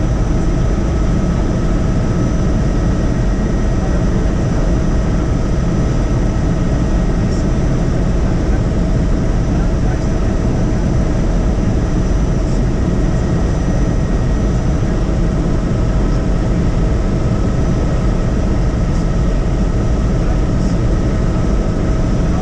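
Helicopter in flight: steady engine and rotor noise, with a thin high whine held throughout.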